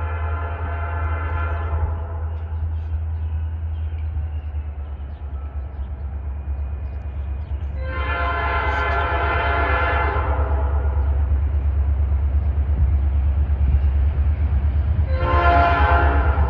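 Norfolk Southern diesel freight locomotive sounding its multi-note air horn: a blast that ends about two seconds in, a second long blast near the middle, and a third starting near the end. Under it the diesel engine's steady low rumble grows louder as the train approaches.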